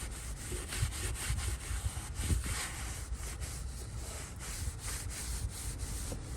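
A leather-cleaning wipe rubbed back and forth over a car's Nappa leather seat, a steady scrubbing of repeated short strokes.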